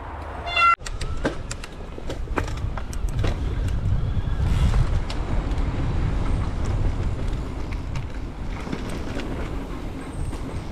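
Mountain bike running down a rough trail: steady wind rumble on the camera, with rattles and clicks from the bike over the ground. A short disc-brake squeal comes under a second in, from brakes the rider calls pants today.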